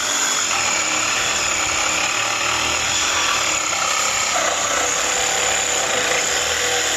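Cordless power saw running steadily as it cuts through metal parts of a scrapped produce chiller, stopping abruptly right at the end.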